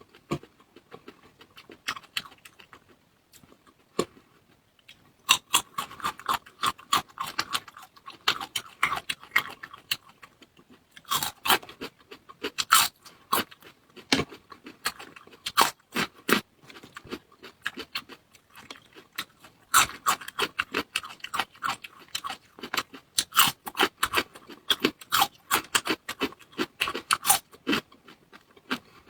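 Close-miked chewing and crunching of food, many quick irregular crunches and wet clicks, with a quieter pause a few seconds in.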